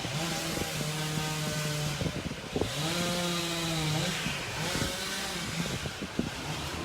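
Chainsaw running at high revs in cutting bursts: one held for about two seconds, a second that rises and holds for about a second and a half, then a short third burst near the end.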